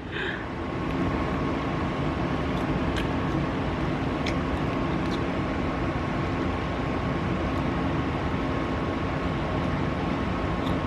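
Steady mechanical hum with a thin constant whine, like a fan or appliance motor running, with a few faint clicks over it.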